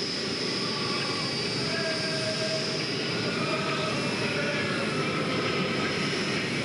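Pulling tractor running at full power: a dense engine noise with a steady high whine across it, drifting slightly down in pitch.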